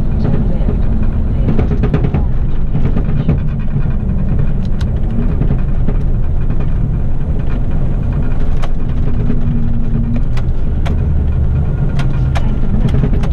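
Heavy rigid waste-collection truck running on the road: a steady low engine and road rumble with scattered sharp clicks and rattles, several of them near the end.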